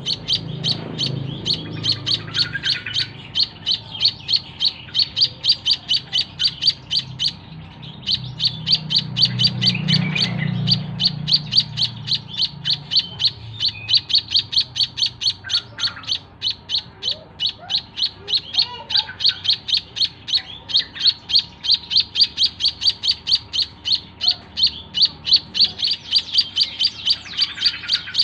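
White-headed munia (emprit kaji) calling in a fast, even series of short high chirps, about three a second, with a brief pause about seven seconds in.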